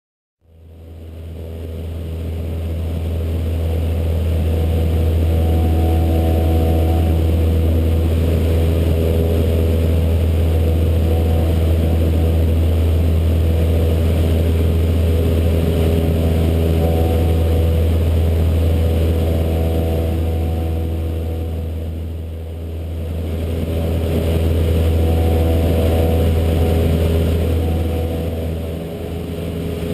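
Cessna 152's Lycoming O-235 four-cylinder piston engine and propeller running with a steady, loud drone and a deep hum. It swells up over the first few seconds and dips briefly twice near the end.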